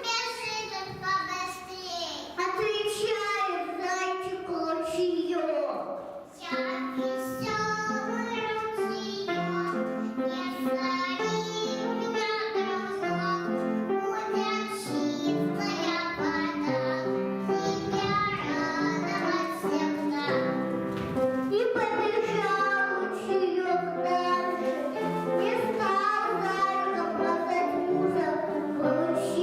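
Children singing a song with instrumental backing music; the steady backing notes become prominent about six seconds in.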